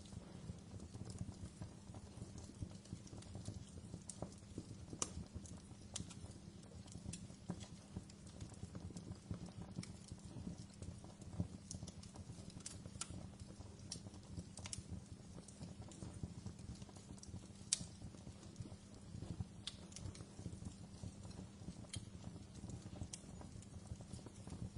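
Wood fire burning in a fireplace: a steady low rumble of flames with irregular crackles and sharp pops from the burning wood, a few of them louder than the rest.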